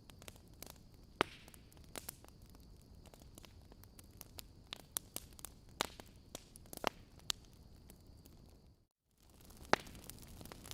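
Wood fire in a fireplace crackling: sharp, irregular pops and snaps over a low steady hiss. The sound drops out briefly about nine seconds in, then the crackling resumes.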